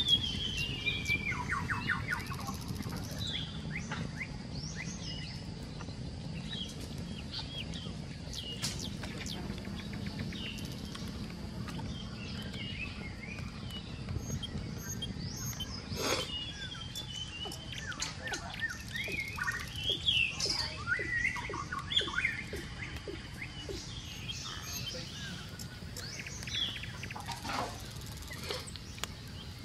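Several birds chirping and calling in short chirps and trills, over a steady low background rumble, with one sharp click about sixteen seconds in.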